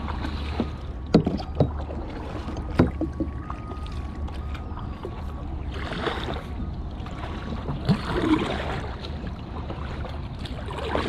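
Kayak being paddled: paddle blades swishing through the water, with a few sharp knocks in the first few seconds, over a steady low rumble.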